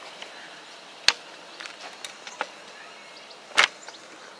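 Class 321 electric multiple unit running slowly into the platform: a steady noise with two sharp clanks, about a second in and near the end.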